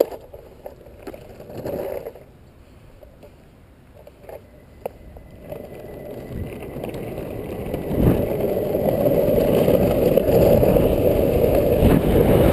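Longboard on Orangatang Balut urethane wheels rolling down an asphalt road, the rushing roll growing louder as the board picks up speed, after a few sharp knocks early on.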